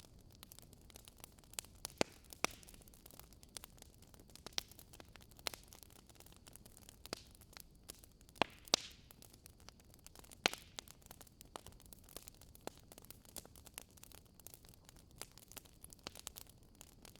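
Burning wood logs crackling: a faint steady hiss full of irregular small snaps, with a few louder sharp pops scattered through.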